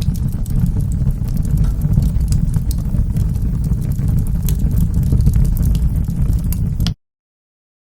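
Wood fire burning in a fireplace: a steady low rumble with scattered sharp crackles and pops. Near the end the sound drops out to dead silence for about a second.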